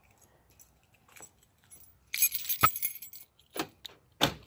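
A bunch of keys jangling for about a second, then a couple of separate sharp clicks.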